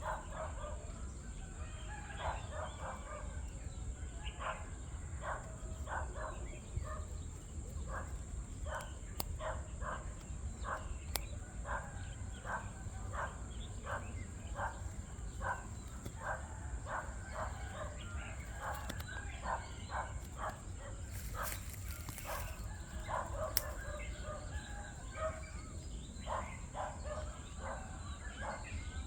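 Short bird calls repeated about once or twice a second, over a steady high hiss and low rumble.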